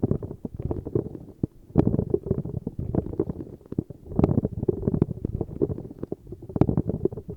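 Rapid, muffled tapping and scratching close to a sensitive microphone, in repeated flurries about every second or so.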